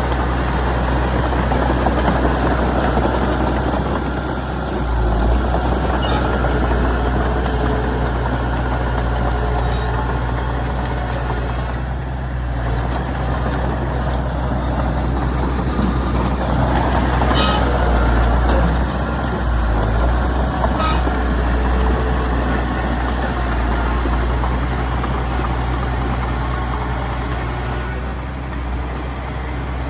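Heavy diesel earthmoving machinery running steadily with a deep low hum, with a few sharp knocks scattered through.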